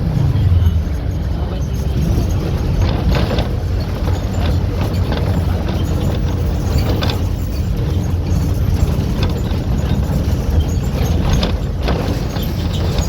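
Volkswagen 17-230 OD bus engine running as the bus drives, a steady low drone, with scattered rattles and knocks from the Marcopolo Torino body. The engine note drops right at the start.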